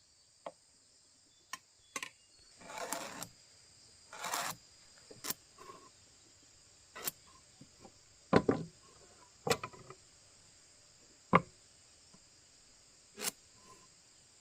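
Steady high-pitched chorus of crickets, with scattered sharp knocks and two short scraping strokes from hand woodworking; the loudest knocks come a little past halfway through.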